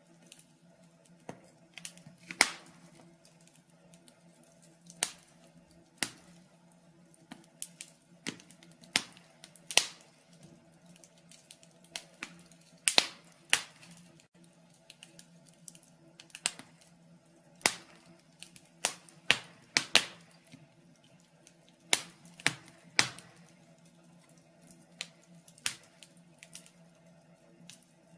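Wood fire in a fireplace crackling, with irregular sharp pops and snaps, one to three a second, over a faint steady low hum.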